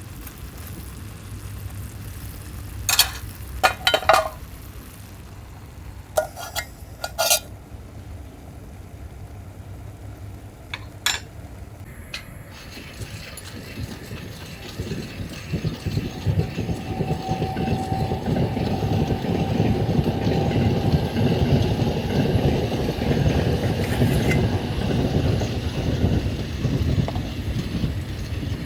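A few sharp metallic clinks in the first half, then a passing train rumbling in, growing louder and staying loud through the second half.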